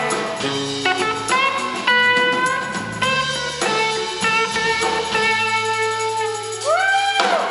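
Live rock band playing an instrumental passage, with a sustained electric lead guitar over bass and drums. The guitar bends notes up and back near the end.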